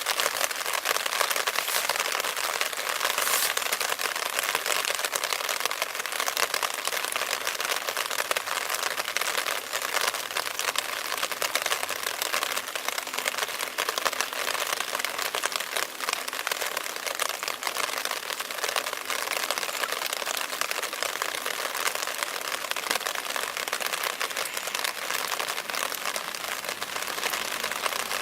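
Heavy rain falling, a steady dense patter of many drops with no pause.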